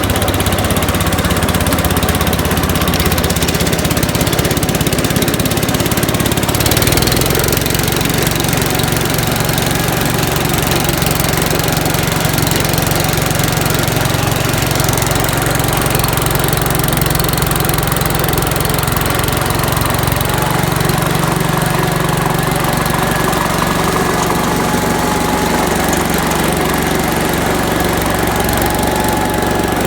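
Gravely C10A walk-behind tractor's engine running steadily with the Deluxe Dog Eater snowblower attached, picking up speed about 7 seconds in and changing pitch again around 20 seconds in.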